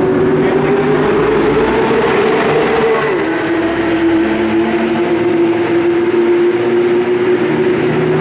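Nissan GT-R R35's twin-turbo V6, breathing through a straight-piped exhaust, running hard at high revs. Its pitch climbs slowly, steps down about three seconds in, then holds steady and loud.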